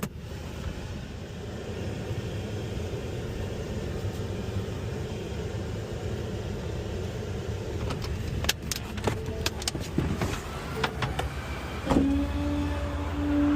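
Small rear-loader garbage truck running steadily, with a few sharp metal knocks and clanks between about eight and eleven seconds in. About twelve seconds in, a steady, higher, even hum comes in over the engine.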